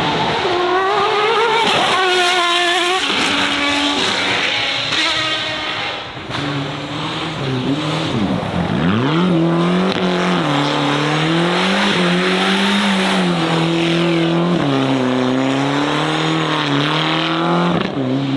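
A race car's engine revving hard, the revs rising and falling over and over, with tyre squeal. About halfway through the revs drop steeply and climb straight back, then hold high and wavering.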